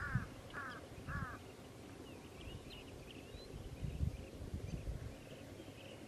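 A bird gives three harsh, evenly spaced calls in the first second and a half. Faint high chirping of small birds runs on after them.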